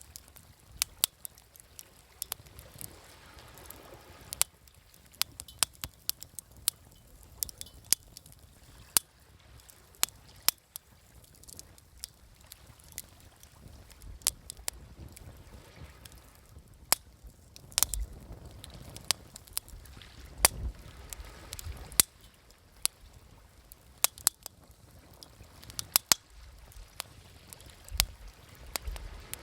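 Wood campfire crackling, with many sharp irregular pops and snaps, over a low wash of sea waves that swells up and fades away about two thirds of the way through and again near the end.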